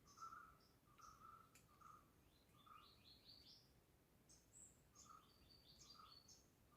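Faint forest birdsong from several birds: one repeats a short, low note roughly every second while others give quick runs of high chirps twice.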